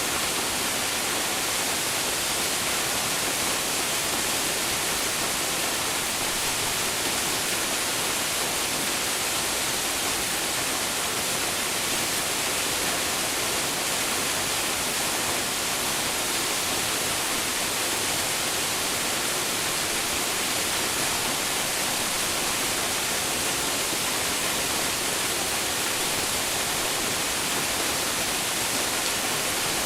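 Waterfall plunging into its pool: a steady, unbroken hiss of falling water, heaviest in the upper range.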